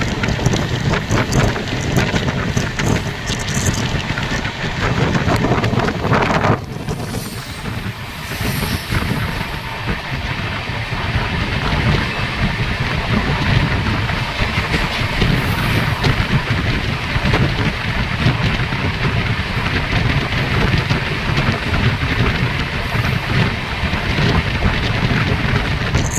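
Amrit Bharat Express train running: a steady, loud rumble and rush of noise, dipping briefly about six and a half seconds in.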